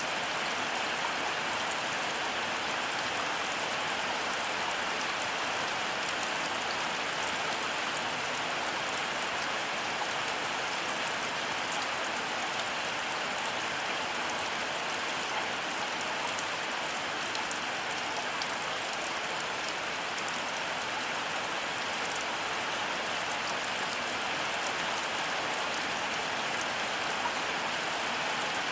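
Heavy rain falling steadily: an even hiss with the fine patter of drops, with no change in strength.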